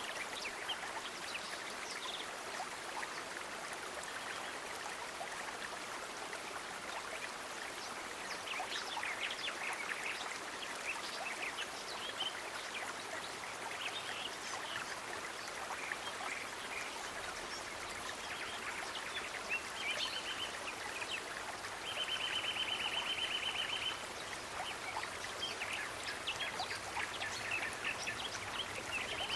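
Nature ambience: a steady rush of running water like a stream, with scattered short bird chirps. About two-thirds of the way in, a high, rapid trill sounds briefly, then again for about two seconds.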